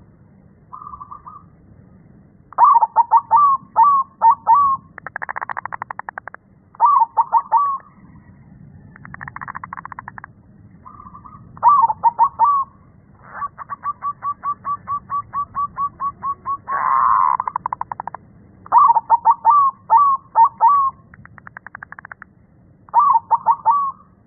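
Zebra dove (perkutut) cooing with a deep voice: a series of short phrases of quick rolling coos, one a long run of evenly spaced coo notes, with buzzier rattling stretches between some phrases.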